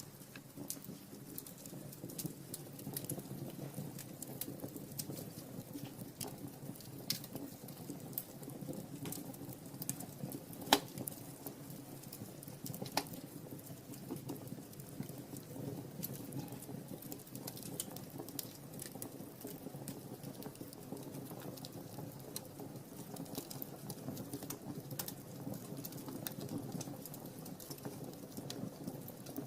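Wood fire burning in a fireplace: scattered crackles and pops over a low, steady rumble of flames. A sharper pop comes about eleven seconds in and another about two seconds later.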